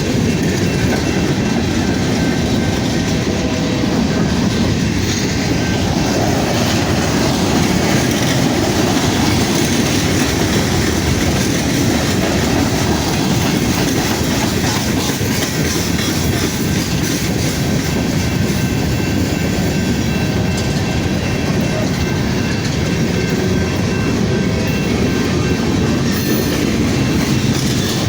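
Freight train passing at close range: a steady loud rumble of cars rolling by, with wheels clicking over the rail joints.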